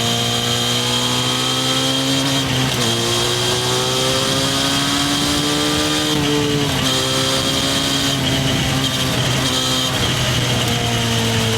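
Harley-Davidson X350's parallel-twin engine pulling under acceleration: its pitch climbs steadily, drops sharply at an upshift about three seconds in and again near the middle, then climbs once more.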